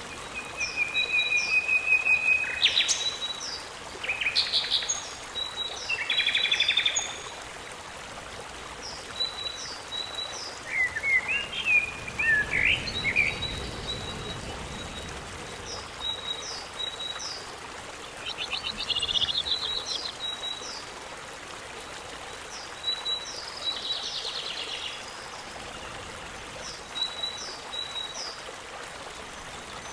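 Several birds calling. Short, high notes repeat in small groups throughout, and louder trills and chattering phrases break in every few seconds, over a steady hiss.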